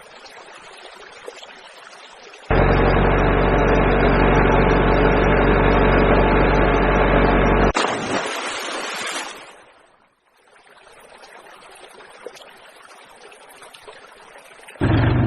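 A tractor engine idling steadily for about five seconds, then cutting off abruptly; a faint hiss before and after, and the engine starts up again near the end.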